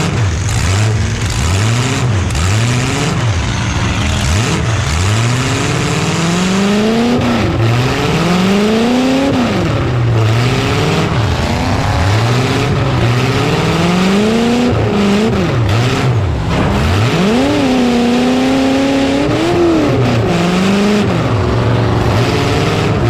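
A competition truck's engine revving hard in repeated surges, its pitch climbing and dropping about a dozen times, over a steady noisy background with a few sharp knocks.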